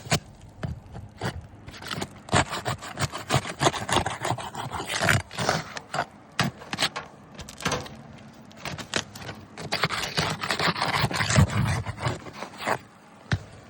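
Asphalt roof shingles being pried up, their sealant strip pulling apart with a dense, irregular run of crackles, cracks and scrapes. The shingles are cracking as they come unsealed, a sign of sealant bonded to the shingle below.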